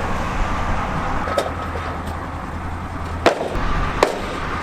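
4x4 utility vehicle's engine running steadily, with a sharp knock about a second and a half in and two more close together near the end.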